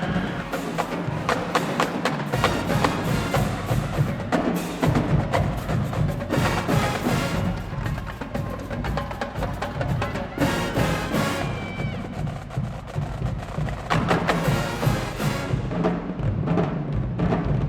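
High school marching band playing, with drumline percussion striking sharply and rapidly under brass.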